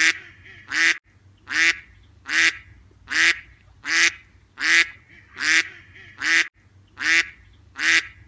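Duck quacking in a steady series of short, harsh quacks, about one every 0.8 seconds.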